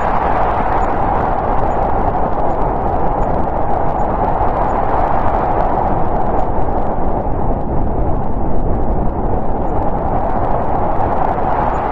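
Snowstorm wind blowing steadily: a dense rushing noise over a low rumble. Its hiss dulls a little about two thirds of the way through.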